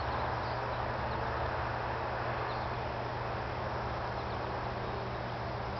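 Honeybees buzzing around an open hive during an inspection: a steady, even hum of many bees.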